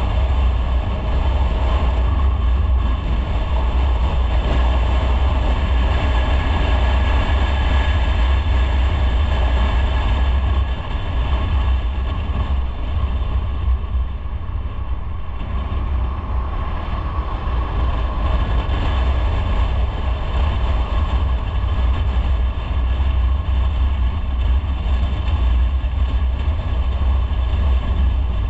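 Motorcycle riding along the road: a steady low rumble of engine and wind noise that eases slightly about ten seconds in.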